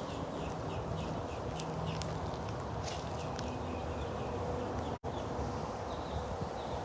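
Outdoor background with a steady low rumble and a run of faint, quick chirping calls in the first two seconds or so. The sound drops out for an instant about five seconds in.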